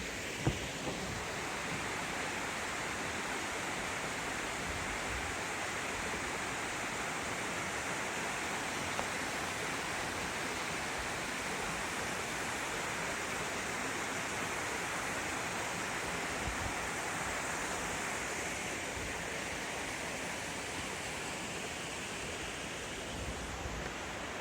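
Waterfall rushing steadily, a constant hiss of falling water, with one short knock about half a second in.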